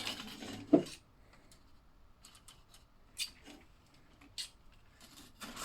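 Plastic slot car track pieces being handled and fitted together: a rustle with one sharp click about three-quarters of a second in, then scattered light clicks.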